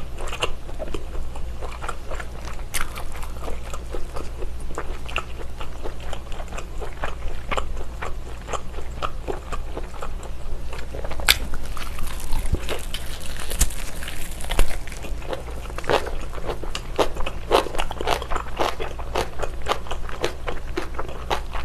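Close-miked mouth sounds of biting and chewing a chunk of baked whole-slab bacon: many short, sharp clicks and smacks, coming thickest in the last few seconds.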